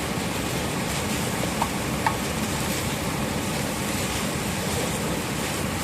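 Onions and ginger-garlic paste sizzling steadily in hot oil in a frying pan, with two light clicks about one and a half and two seconds in.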